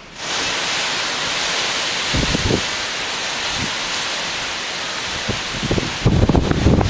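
Storm rain and wind making a loud, steady hiss that starts abruptly, with gusts buffeting the microphone in low rumbles a few times and more heavily near the end.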